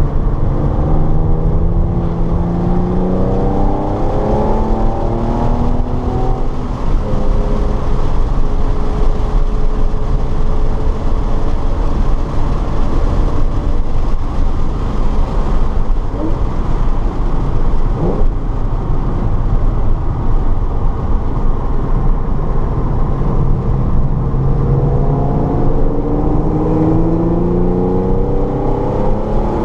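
Car engine accelerating hard, its pitch climbing through the gears with quick drops at each upshift near the start and again near the end, over constant road and wind noise, heard from inside the car.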